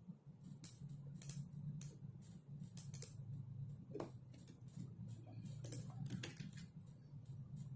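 Typing on a computer keyboard: irregular keystrokes, a few a second, over a steady low hum.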